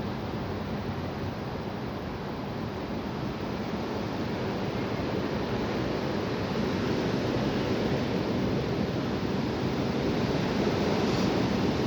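Strong wind blowing, a steady rushing noise that swells louder about halfway through.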